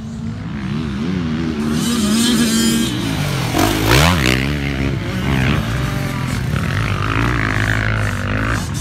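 Dirt bike engine revving up and down as it rides, with a sharp rev that rises and falls about four seconds in, then steadier running.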